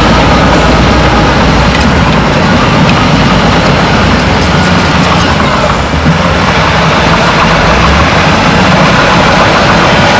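Diesel engines of heavy earthmoving machinery running loud and steady, with a brief dip about six seconds in.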